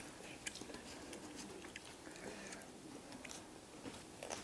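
Faint chewing of dumplings, with a few small scattered mouth clicks.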